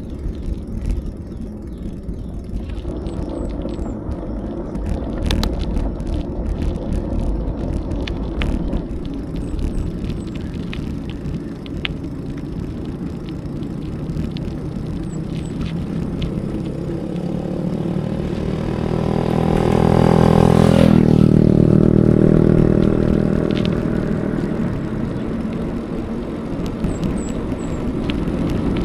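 Steady wind and road rumble from a bicycle ride, with scattered light clicks. About two-thirds of the way through, a motor vehicle passes close by: its engine grows louder, drops in pitch as it goes past, and fades away.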